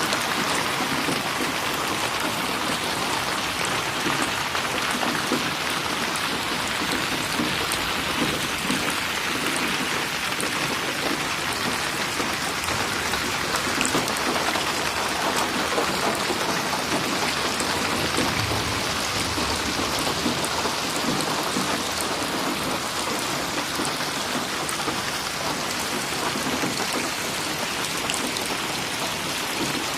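Steady rain falling on a surface, with individual drops splashing.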